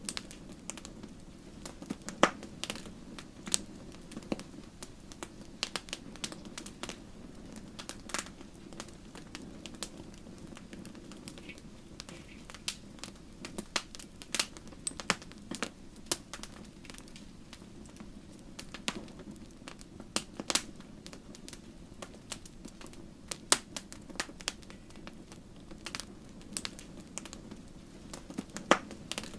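Wood fire burning in a fireplace: a low steady rush of flame with irregular crackles and sharp pops from the burning logs, a few of them much louder.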